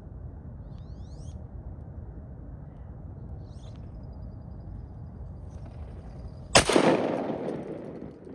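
A single shotgun shot about six and a half seconds in, its report dying away over a second or more. Before it, two faint, high rising bird calls over a low steady background.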